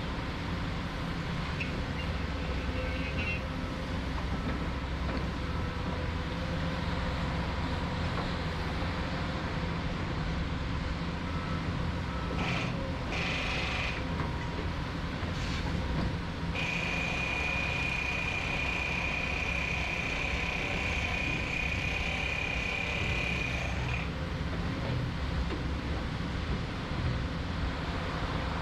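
Heavy construction machinery running with a steady low engine drone. A high-pitched warning tone, like a machine's travel or reversing alarm, sounds in short spells around the middle, then holds steady for about seven seconds and comes back near the end.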